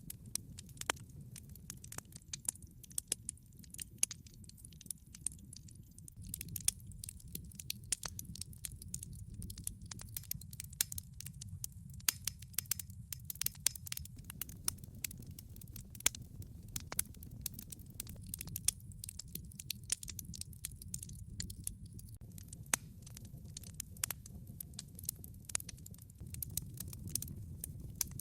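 Log fire crackling, with frequent irregular sharp pops and snaps over a steady low rumble of the burning fire.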